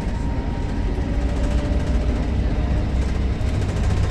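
Volvo B7RLE bus's six-cylinder turbodiesel engine running steadily under way, a deep rumble with a faint thin turbo whistle over it.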